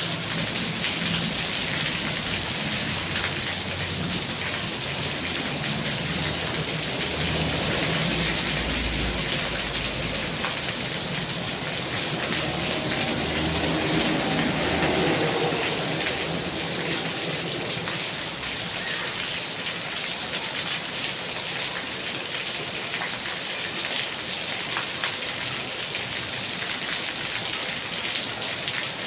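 Heavy rain falling steadily, with a low rumble underneath through the first half or so.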